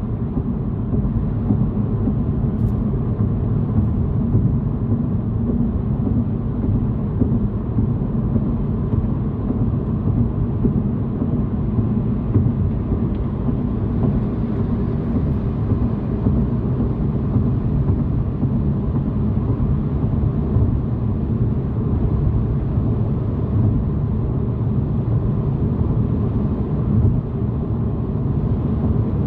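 Car driving at highway speed: a steady low rumble of tyres and engine heard from inside the car, with no change through the stretch.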